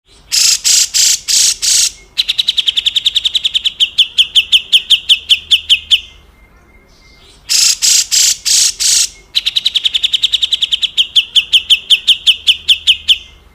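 Grey-cheeked bulbul (cucak jenggot) giving its harsh, rasping 'besetan kasar' call twice. Each time, a few loud, coarse notes lead into a fast, stuttering run of sharp notes lasting several seconds.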